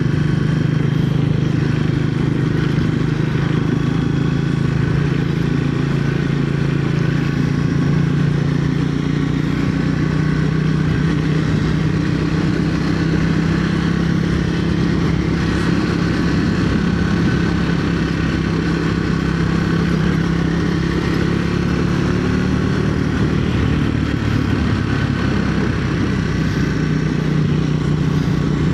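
Triumph Speed 400's single-cylinder engine running under way at a fairly steady engine speed, dipping slightly and picking up again near the end.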